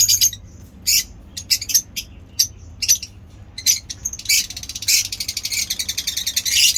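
Lovebirds chirping: short, high-pitched chirps a few at a time, then a fast, unbroken run of chattering calls from about four seconds in.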